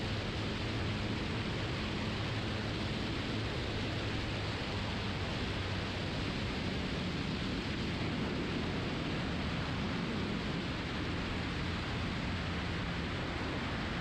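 Steady cabin noise of a Cessna 180 on final approach: an even rush of engine and airflow noise with a faint low hum from its six-cylinder Continental O-470 engine.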